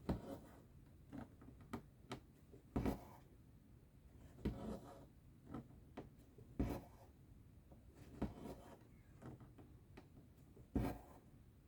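Needle and thread being pulled through cross-stitch fabric: soft rasping strokes, one every second or two.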